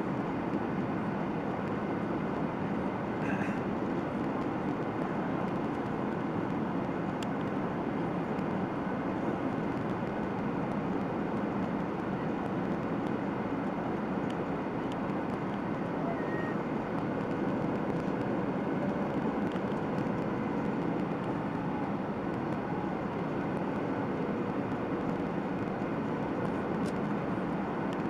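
Steady cabin noise inside a Boeing 737-800 airliner: an even rumble and rush from its CFM56-7B turbofan engines and the airflow, heard from a passenger seat.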